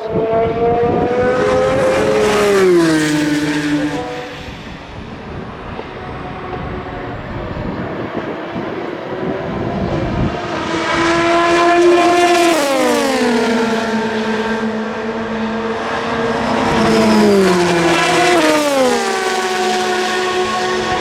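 Endurance race cars passing at speed, one after another, with loud engine notes that drop in pitch as each goes by, three main passes, the last two close together near the end.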